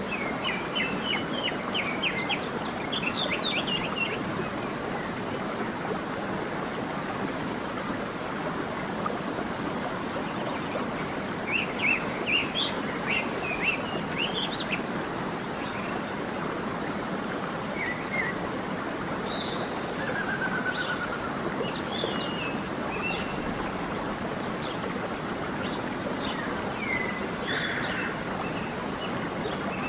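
Creek water running steadily, with small birds chirping and singing in several short bouts over it.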